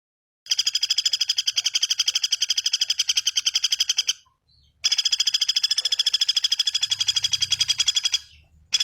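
Small bird giving a rapid, even trill of sharp repeated high notes, in runs of about three and a half seconds with short pauses between, a third run starting near the end.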